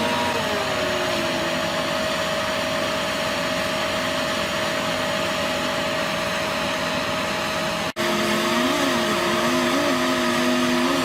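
Heavy machinery running steadily, a constant mechanical drone with a high whine. It cuts out for an instant about eight seconds in, then carries on with a lower tone that wavers up and down.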